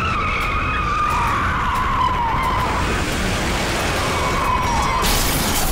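A car's tyres squeal in a long, wavering skid over a low engine rumble, the car running out of control with failed brakes. A sudden crash near the end.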